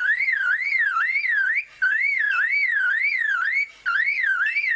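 A male superb lyrebird mimicking a car alarm: a whistled tone that swings up and down about two and a half times a second, in phrases broken by two brief pauses.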